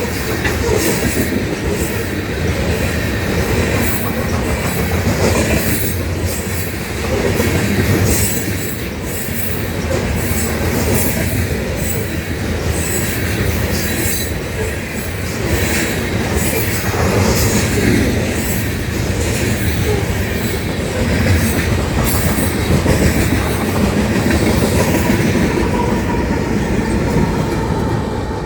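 Freight train cars rolling past at close range, steel wheels clattering over the rail joints in a steady, continuous run of clicks.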